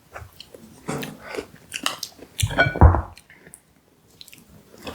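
Close-miked eating sounds: a person biting into pie topped with ice cream and chewing, with wet mouth clicks and smacks and a louder low thud about two and a half seconds in.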